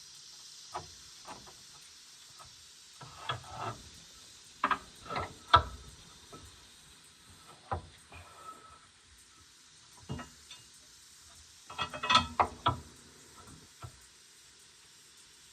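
Irregular metallic clinks and clanks of hand tools and metal parts being handled, coming in short clusters, the loudest about five and a half seconds in.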